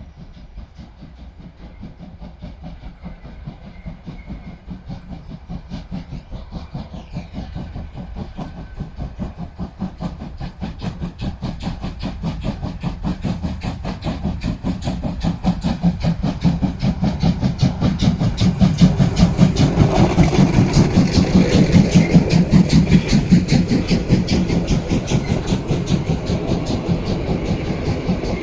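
Steam locomotive 50 3516, a DR class 50.35 two-cylinder 2-10-0, working hard with a rapid, even beat of exhaust chuffs. It grows steadily louder as it approaches, is loudest a little past two-thirds through, then eases slightly.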